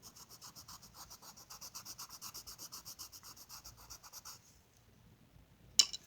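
Colouring on paper: rapid back-and-forth shading strokes, about ten a second, that stop after about four seconds. A single sharp click or tap follows near the end.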